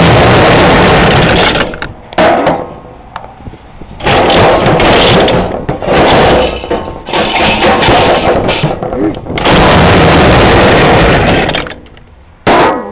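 A Homelite ST175G string trimmer's two-stroke engine, cold-started and still wanting choke, revved hard about six times. Each burst lasts from a moment to a couple of seconds and falls back toward idle between them. The revs overload the recording.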